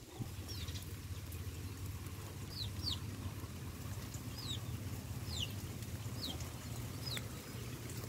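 A small bird chirping: short, high notes that each slide down in pitch, repeated every second or so, over a steady low rumble.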